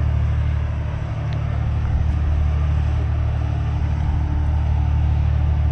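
Steady low rumble that holds an even level throughout.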